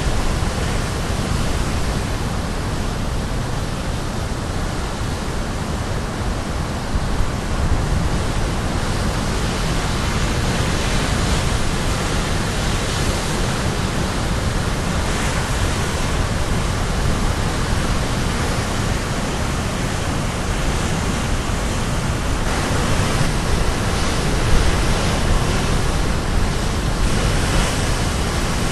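Caribbean Sea waves crashing on the shore: a loud, continuous rush of surf that swells and eases gently every few seconds.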